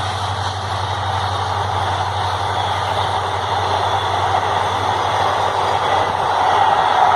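Train running on the track: a steady low rumble with wheel-and-rail noise that grows louder near the end.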